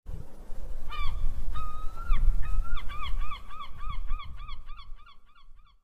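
A bird calling over and over: a few separate calls, then a quickening run of short, pitched calls, about three a second, that fade out near the end, over a low rumble.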